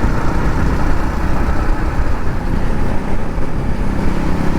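Motorcycle on the move: wind rushing over the microphone, with steady engine and road noise underneath.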